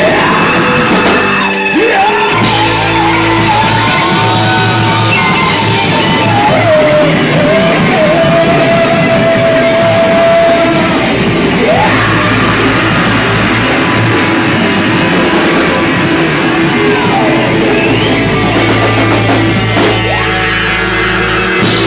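Live rock band playing in a large room: electric guitar lead with long sustained notes and pitch bends over bass and drums.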